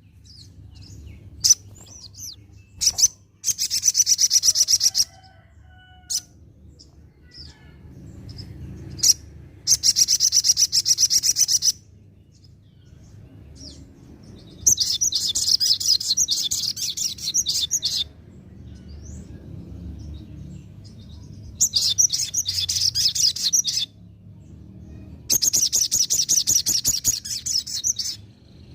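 Ruby-cheeked sunbird (sogon) singing: five bursts of rapid, high-pitched repeated notes, each one to three seconds long, with scattered single chirps in between.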